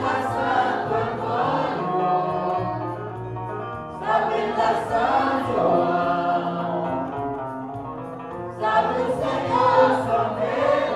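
A group of voices singing a Santo Daime hymn together in Portuguese, in long sung lines that start afresh about every four seconds.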